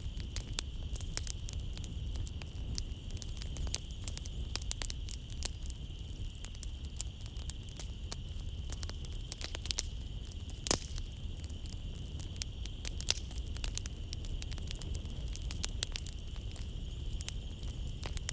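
Wood fire in a fireplace crackling and popping steadily, with one louder pop about eleven seconds in, over a low rumble of the flames. Behind it runs a steady high chirring of night insects.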